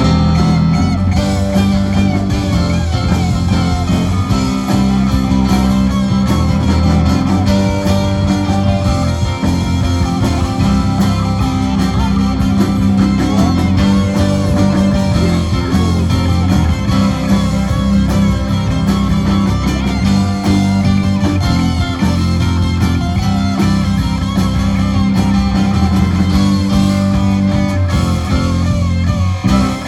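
Rock band playing, an electric guitar carrying a lead line of wavering, bent notes over a steady bass.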